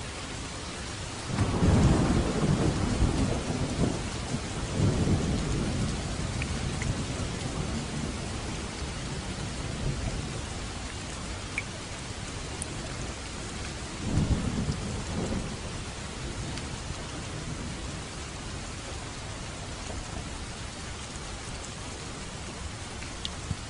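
Steady rain falling, with rolling thunder: a loud low rumble starting about a second in that swells again and dies away over several seconds, and a shorter rumble past the middle.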